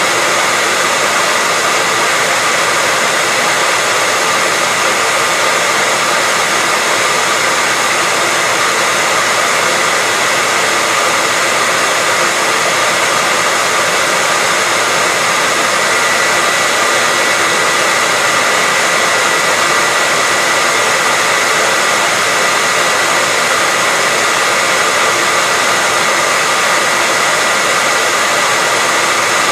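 Hair dryer running steadily: an even, unbroken blowing hiss with a faint high whine from its motor, played as white noise for a baby's sleep.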